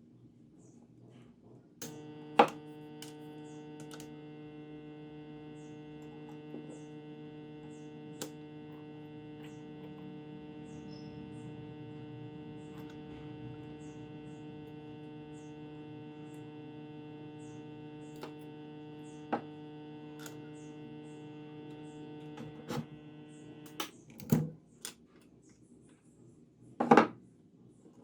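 A homemade spot welder's microwave-oven transformer switches on about two seconds in and hums steadily with a buzzing, many-toned mains hum, then cuts off near the end. A few light clicks fall during the hum, and several sharp knocks follow it.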